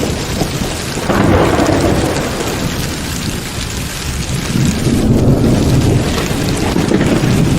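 Heavy rain pouring steadily through a thunderstorm, with thunder rumbling. One roll swells about a second in, and another builds from about five seconds in.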